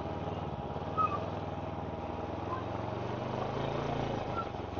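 Can-Am Ryker 600's twin-cylinder engine running at low revs, a steady hum that rises a little and drops back about four seconds in. A brief faint chirp sounds about a second in.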